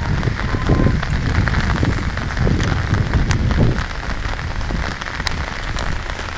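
Heavy rain pouring down steadily as a dense hiss, with a low rumble through the first few seconds.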